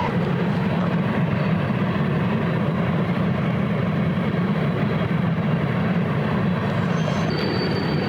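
A train passing close by, a loud, steady rumble that holds even throughout, with a faint thin high whine coming in near the end.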